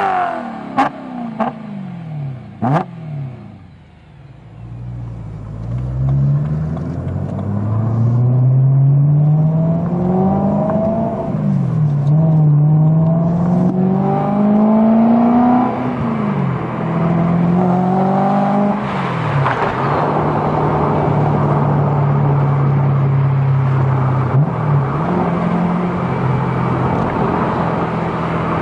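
Car engine and exhaust: a few quick throttle blips with the revs falling away, then the engine pulling up through the gears, its pitch climbing and dropping at each of three shifts before settling to a steady cruise.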